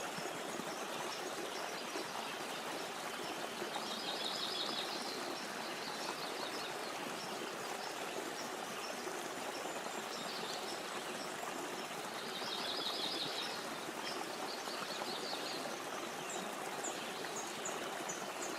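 Steady rushing of flowing water, like a small stream, with a songbird trilling a few times and high chirps near the end.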